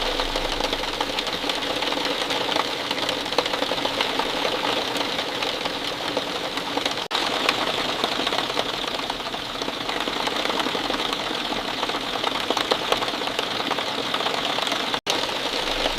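Steady rain falling, a dense patter of many fine drops, dipping out for an instant about seven seconds in and again near the end.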